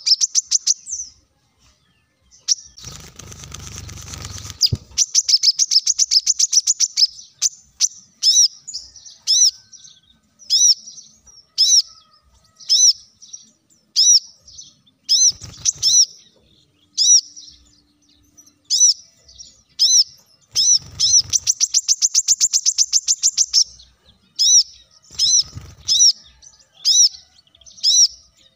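Brown-throated sunbird (kolibri kelapa) singing: a long string of sharp, high double chirps about once a second, broken by quick rapid trills. There is a short rustling noise about three seconds in.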